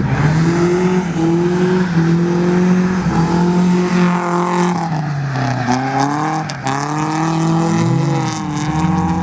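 Nissan 240SX drift car's engine held at high revs through a drift, dropping in pitch twice and climbing back each time, with tyre noise underneath.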